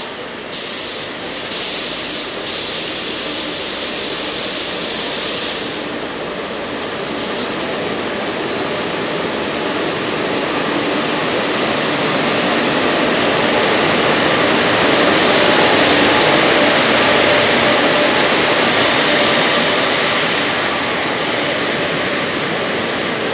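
An express passenger train hauled by a WAP-4 electric locomotive rolls into the platform in heavy rain, its wheels running on the rails. The steady rumble and hiss build to their loudest about two-thirds through as the locomotive and coaches pass close by.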